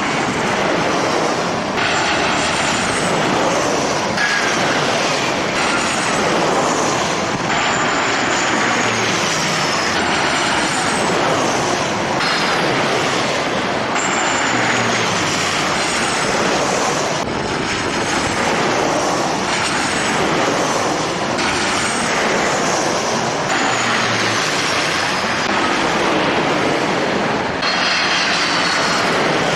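Jet airliner engines running loud and steady, with high whines that glide downward again and again.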